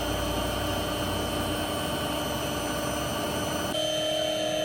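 A small motor running steadily: a constant whine over a rushing hiss, its tone shifting slightly near the end.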